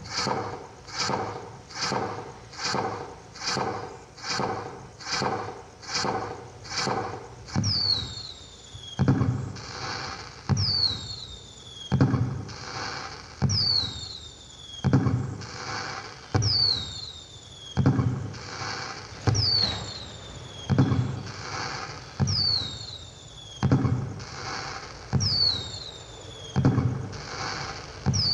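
Firecracker sound effect played by a pixel LED cracker light: a steady run of sharp pops, about one and a half a second. About eight seconds in it changes to a looping falling whistle followed by a bang, repeating roughly every two seconds.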